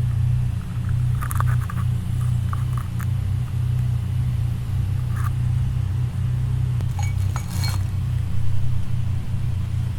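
A few light metallic clinks and knocks, some with a short ringing tone, as engine parts and hand tools are handled, over a loud steady low hum.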